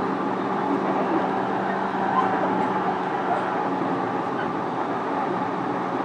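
Cabin running noise of a JR East E233-series commuter train, heard inside a motor car: the steady rumble of wheels on rail with an even-pitched hum from the running gear. The train holds a steady speed.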